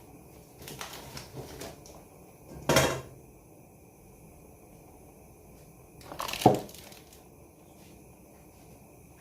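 Kitchen pots and utensils clattering: a few light knocks, then two loud clanks about three and a half seconds apart, the second ringing briefly.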